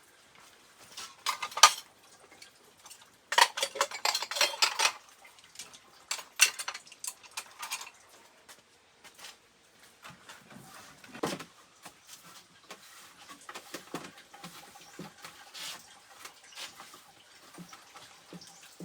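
Dishes and cutlery clattering and clinking as they are handled, in several short bouts of clatter with quieter clinks between them.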